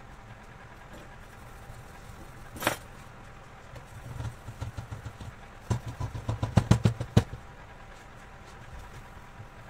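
A steady low hum, with one sharp click, then a quick run of irregular knocks and taps lasting about three seconds, the loudest near its end.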